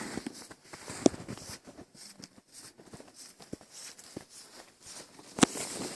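Footsteps in snow: irregular crunching steps, with a sharper crunch about a second in and another near the end.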